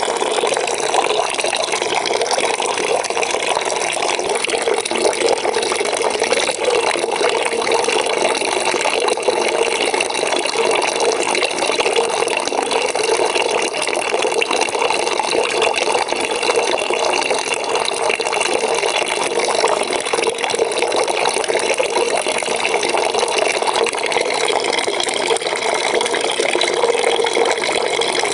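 Water pouring into a bucket as it fills, a steady, even splashing with no change.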